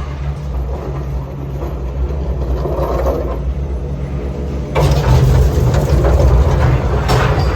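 Heavy engine or machinery running with a steady low rumble, growing louder and noisier about five seconds in.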